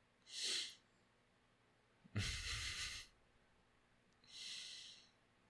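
A man breathing audibly close to the microphone: a short breath near the start, a louder one lasting about a second about two seconds in, and a softer one near the end.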